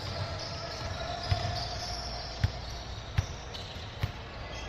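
Basketball bouncing on a gym floor, four separate thumps about a second apart, over steady gym background noise.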